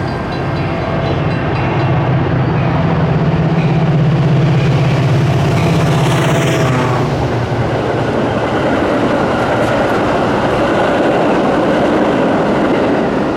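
Metra commuter train passing at speed: the diesel locomotive's engine drone rises and passes by about halfway through, followed by the steady rolling rush of the coaches over the rails.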